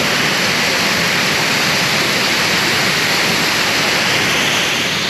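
A powerful waterfall crashing down, a loud, steady rush of falling water.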